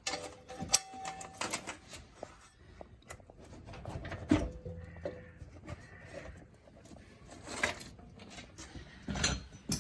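Scattered light clicks and knocks of metal parts being handled, as the PTO shaft is unhooked from the tractor with its engine shut off.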